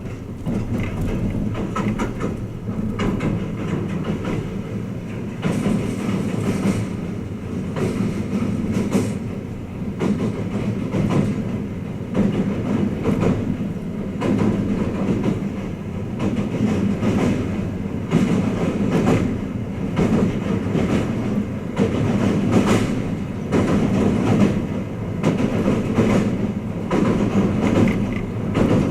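Twilight Express Mizukaze (Kiha 87 series) train running, heard inside a passenger cabin: a steady low rumble of wheels on rail with irregular clacks as the wheels pass over rail joints.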